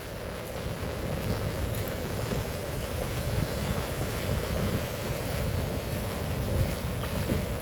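Heavy rain falling in a steady rush, with a low uneven rumble of wind noise on the microphone.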